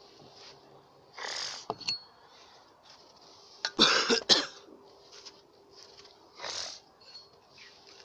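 A person coughing, three short bouts with the loudest, broken into several coughs, in the middle.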